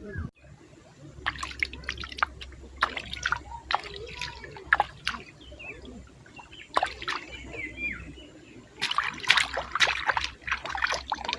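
Water splashing and trickling in uneven clusters of splashes, busiest near the end.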